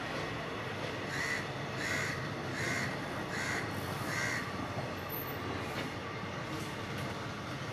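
Steady rumble of a train of passenger sleeper coaches running past on the rails. A crow caws five times in a row, about two-thirds of a second apart, in the first half.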